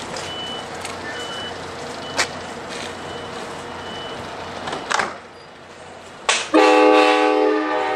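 Locomotive air horn blowing a loud chord of several notes at once, starting suddenly about six and a half seconds in and still sounding at the end. Before it there is a steady background hiss with a faint high beep about once a second.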